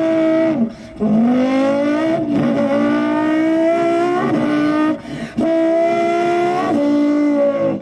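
A boy imitating a racing engine with his mouth, revving up through the gears: a buzzing vocal tone climbs in pitch, drops, and climbs again several times, with two short breaks.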